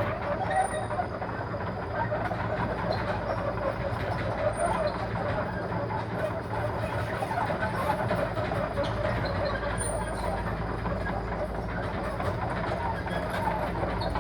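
A large diesel engine running steadily under a dense, continuous clatter of heavy machinery.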